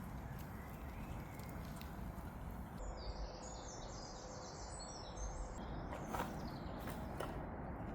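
A small bird sings a rapid twittering phrase for about three seconds over a steady outdoor background noise. A few sharp clicks follow near the end.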